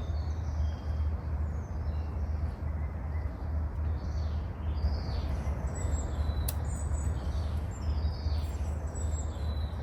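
Birds chirping and calling in short high notes over a steady low rumble.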